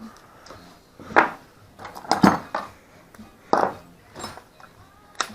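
Metal hand tools clanking together: sockets and wrenches being handled and set down, four or five separate sharp clinks with a brief ring.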